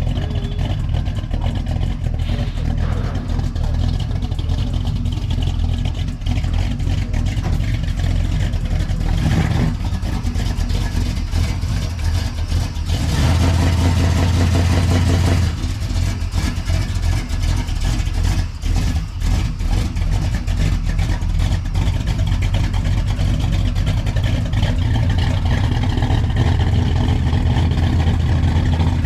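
A vehicle engine running steadily, with a louder surge lasting about two seconds roughly 13 seconds in.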